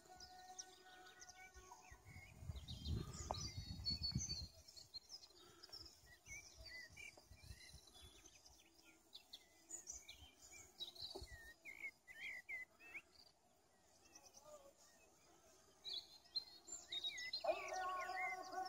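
Small songbirds chirping and calling in short, varied high phrases. A low rumble sounds from about two seconds in for a couple of seconds, and music comes back near the end.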